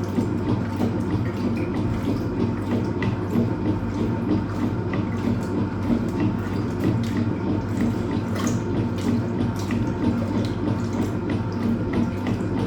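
Hoover Automatic 820 washing machine filling with water for a full load: a steady rush of water into the tub over a constant low hum.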